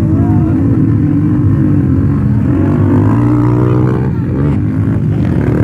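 Several motocross bike engines running hard, one revving up with its pitch climbing for a couple of seconds before dropping back about four seconds in and rising again.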